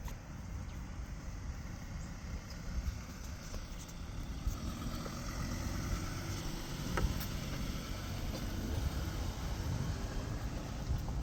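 A car engine running, a steady rumble that slowly grows louder, with one sharp click about seven seconds in.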